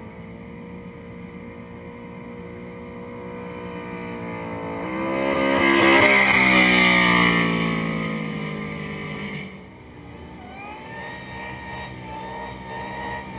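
Car engine held at high revs during a burnout, rear wheels spinning: it grows louder as the car slides past about six seconds in, its pitch falling as it moves away, and drops off suddenly after about nine and a half seconds. A second car's engine then starts revving further off and builds toward the end.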